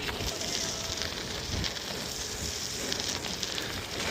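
Steady rushing, crackling noise of a bicycle ride: wind across the microphone and the tyres rolling over the path.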